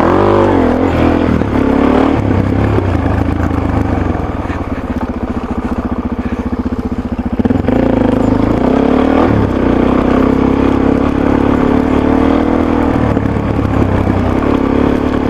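Motorcycle engine running through a Yoshimura RS-3 exhaust with the muffler insert fitted, pitch rising and falling with the throttle. It drops to a lower, quieter note for a few seconds in the middle, then pulls up again.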